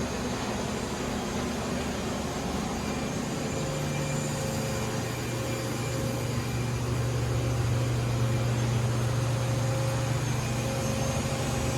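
Doosan Lynx 220LC CNC turning center running under power: a steady machine hum with low tones. A stronger, slightly higher low tone comes in about four seconds in and holds.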